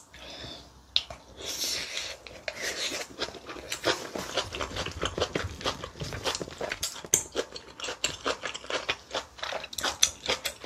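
Close-miked chewing of a mouthful of braised kimchi: rapid wet smacking and crunching mouth sounds, several a second.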